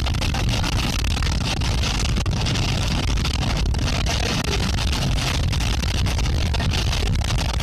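Steady rushing noise of a rainstorm, with a constant deep rumble underneath.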